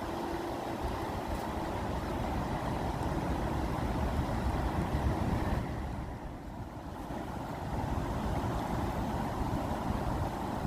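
Water rushing steadily with a deep rumble, swelling a little and then easing off briefly about six seconds in.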